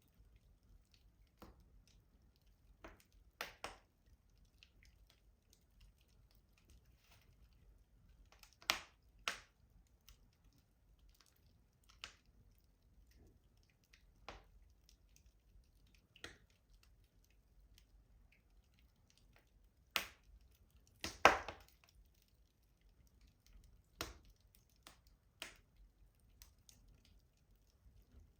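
Wood fire crackling in a rustic stove: scattered sharp pops and snaps over a faint background, with the loudest burst of pops about three quarters of the way through.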